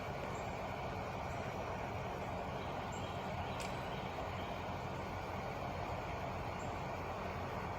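Steady low vehicle rumble without change, with a few faint short high chirps over it.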